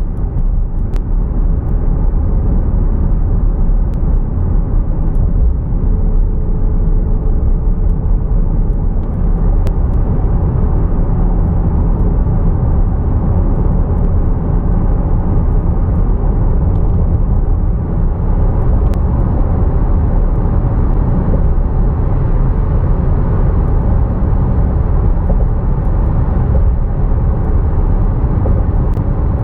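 Porsche Cayenne GTS (9PA) cruising at a steady speed: its 4.8-litre V8 runs evenly under a steady low rumble of road and tyre noise, with no change in pitch.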